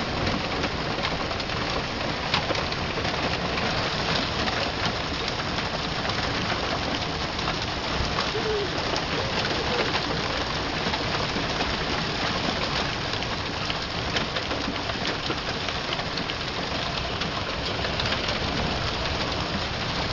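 Hailstorm: hailstones coming down hard, a dense, steady pattering of countless small hits.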